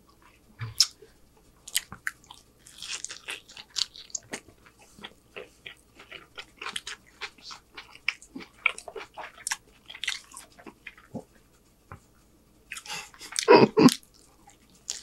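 Close-miked chewing and wet mouth sounds of eating a soft corn-tortilla chicken street taco: many small clicks and smacks, with a louder bite into the taco near the end.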